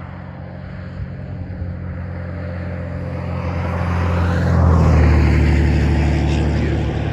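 A motor vehicle passing on the road, growing louder to a peak about five seconds in, its engine note dropping as it goes by, then fading.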